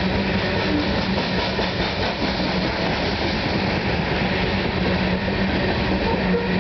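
CSX freight train's coal hopper cars rolling past close by: a steady noise of steel wheels running over the rails, with a steady hum running under it.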